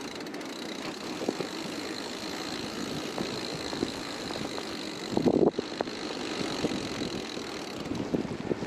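Steady wind and riding noise from a fat bike rolling along a snowy trail, with a thin high whine through most of it that stops near the end, and a brief knock a little past five seconds in.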